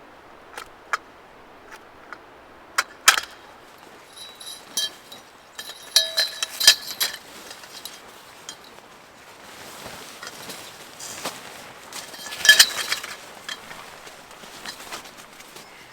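Hard objects clicking and clinking as they are handled, a scatter of separate taps. There is a short ringing clink about six to seven seconds in and another cluster of clinks about twelve and a half seconds in.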